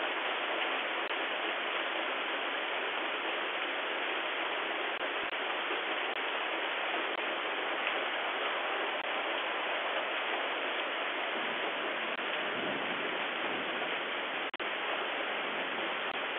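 Steady heavy rain falling on the porch, cars and street, an even dense hiss heard through a doorbell camera's small microphone, with a few faint ticks.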